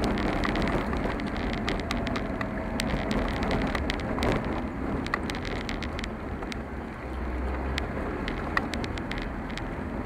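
A car driving on a rough road: a steady rumble of road and tyre noise with frequent sharp ticks and rattles throughout.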